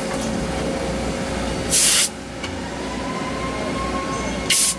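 Two short, loud hissing bursts about two and a half seconds apart, over a steady background of machine noise.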